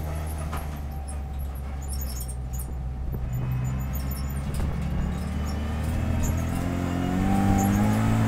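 Renault Clio Cup race car's engine heard from inside the cockpit, running at low revs as the car slows and changes down into second gear, then pulling again with the engine note rising over the last few seconds. Scattered light clicks sound over it.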